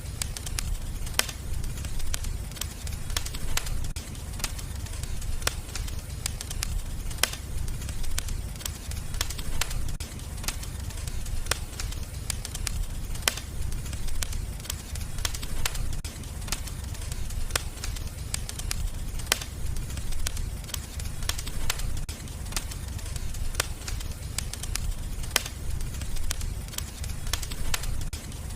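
Wood fire crackling: frequent, irregular sharp pops and snaps over a steady low rumble of the flames.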